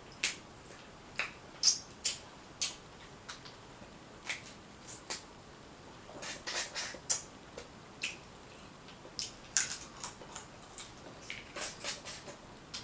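Close-miked eating: irregular wet smacks and clicks of chewing and picking at seafood, with no steady rhythm.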